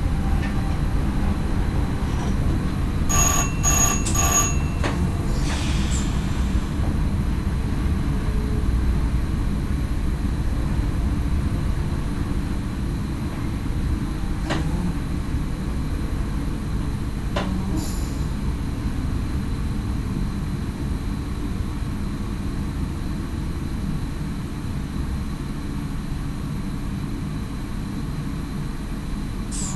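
Cab of an NS SGM Sprinter electric multiple unit running along the line: a steady low rumble of wheels on rail, easing off slightly over the stretch. About three seconds in, a quick series of about four electronic beeps sounds in the cab.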